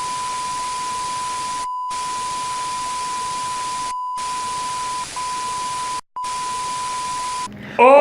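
A steady electronic beep held on one pitch over a loud hiss of static, like a TV test tone with white noise. It drops out briefly three times and stops shortly before the end.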